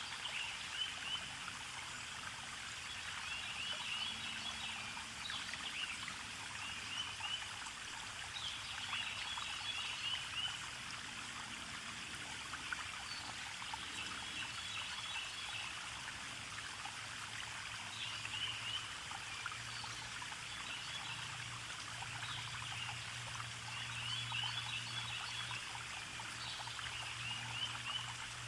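Small forest stream trickling steadily, with birds giving short clusters of high chirps every couple of seconds. A faint low hum rises in the last third.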